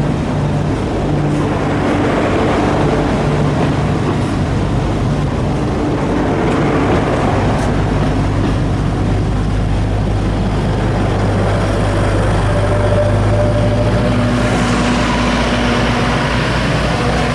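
Alishan Forest Railway train pulling slowly away on its narrow-gauge track, pushed by diesel locomotive DL-51: a steady diesel engine drone with the rumble of the carriages rolling on the rails. The engine grows louder for the last few seconds as the locomotive comes past.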